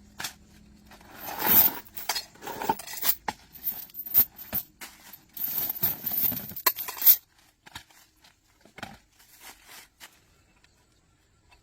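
Hand work on metal parts: a run of knocks, clinks and scraping noises, with the loudest scraping about a second and a half in and again from about five and a half to seven seconds, then only scattered light clicks.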